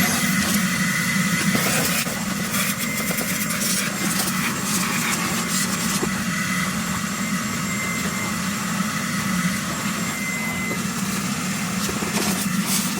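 A small engine running steadily with a constant low hum under a broad, even hiss.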